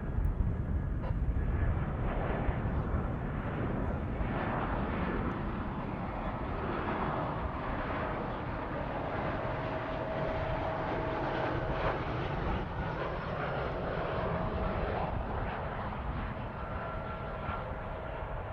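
Jet airliner engines rumbling steadily, with a steady high whine coming in about a third of the way through and the sound easing slightly toward the end.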